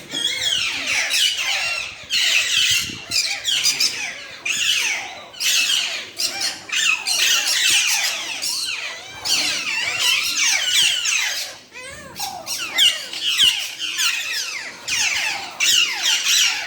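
Many small parrots and lovebirds chirping and chattering at once: a dense, unbroken stream of quick, high calls, many sliding downward in pitch.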